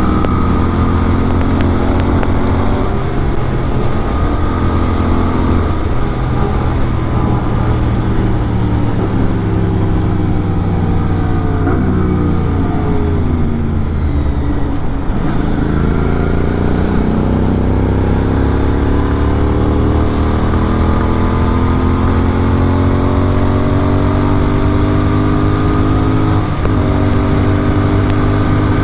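Superbike engine with an SC Project aftermarket exhaust, running under way. Its pitch falls steadily for several seconds as the bike slows, then climbs again as it accelerates, with a short break near the end at a gear change.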